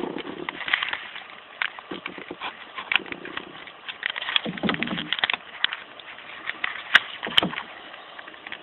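Hands handling a small multitool and its packaging: irregular clicks, taps and rustles, with two sharp clicks about seven seconds in.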